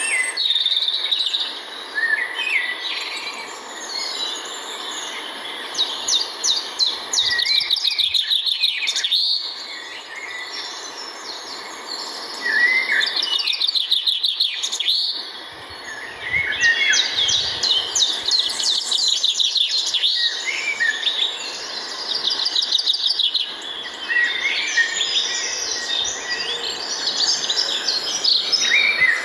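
A chorus of many songbirds chirping and trilling at once, with a steady thin high-pitched whine under it.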